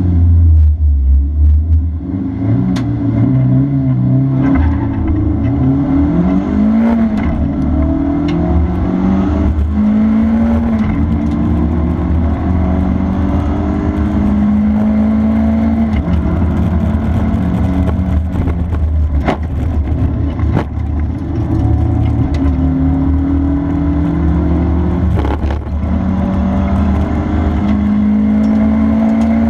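Honda Integra DC2's four-cylinder engine at full throttle on a race track, its pitch climbing and dropping back again and again as it shifts up through the gears and brakes for corners. A few sharp knocks come through about two-thirds of the way in.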